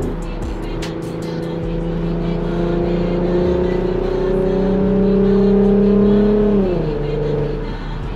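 Infiniti Q50's V6 through an aftermarket cat-back exhaust and resonated test pipes, heard while driving. The engine note climbs slowly as the car gathers speed, then drops sharply about six and a half seconds in as the driver lifts off or shifts, and settles lower.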